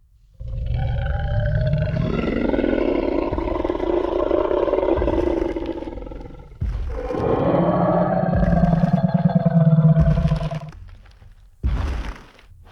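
Tyrannosaurus rex roar sound effect: two long, deep roars, the first about six seconds long and the second about four, followed by a short heavy burst near the end.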